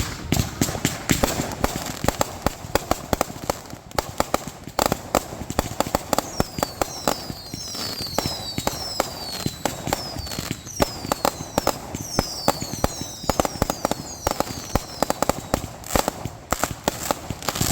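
Consumer fireworks going off in rapid succession: a steady rattle of bangs and crackles. Through the middle, a run of short, high whistles falls in pitch.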